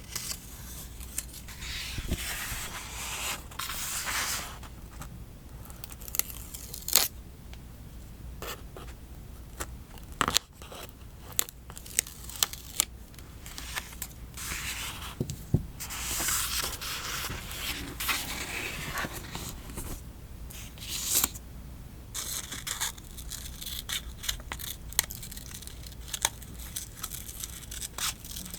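Close-up paper-crafting sounds: stickers and paper peeled from their backing and rustled by hand, with scattered sharp clicks and taps.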